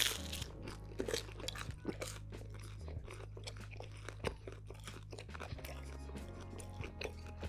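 A person chewing and crunching a thin, crispy pizza crust close to the microphone, with many short crackling bites. Soft background music plays underneath.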